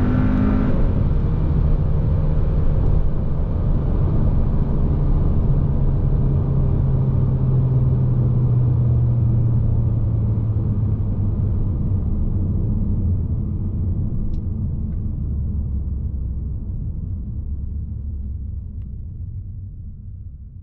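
2021 Hyundai Sonata N Line's 2.5-litre turbocharged four-cylinder: its rising engine note breaks off about a second in as the throttle is lifted, then a low engine and road drone runs on, slowly falling in pitch as the car slows, and fades out near the end.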